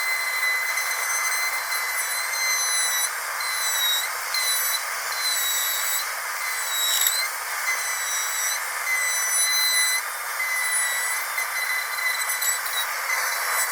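High-speed dental drill running with a steady high-pitched whine over a hiss of air and water spray. The whine dips briefly in pitch a couple of times, as if bearing down on a tooth.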